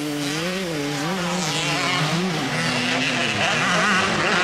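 85cc two-stroke motocross bikes racing, their engines revving up and down as the riders work the throttle, several at once; a higher-revving bike rises near the end.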